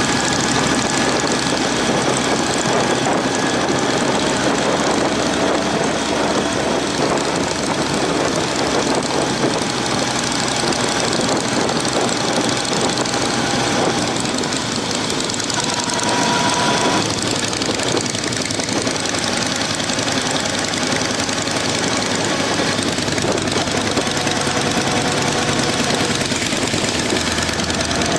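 Motorcycle under way: the Honda CB750's four-cylinder engine running steadily beneath a constant rush of wind noise over the microphone.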